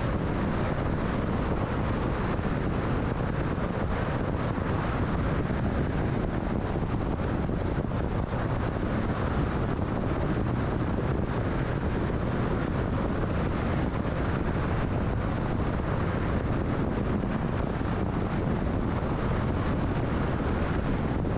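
Steady road and wind noise of a car cruising at freeway speed: an even rush of tyre and wind noise with no change.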